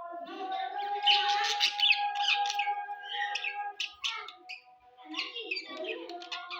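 Budgerigars chattering and squawking in rapid, busy warbles, over a steady held tone.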